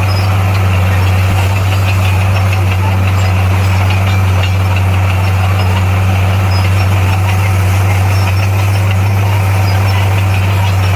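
Heavy diesel engine of earthmoving equipment running steadily: a strong, even low drone with a rough mechanical clatter above it, with no revving or change in pitch.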